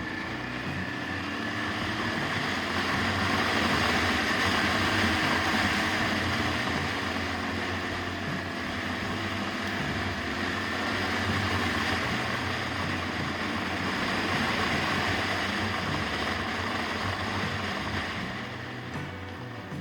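Yamaha TDM 850 parallel-twin motorcycle engine under way on the road, its pitch rising and falling with the throttle, under a steady rush of wind noise.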